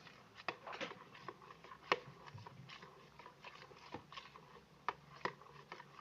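Scattered small clicks and wet taps from handling a bowl of runny glue-and-water slime mixture and a small bottle of colouring.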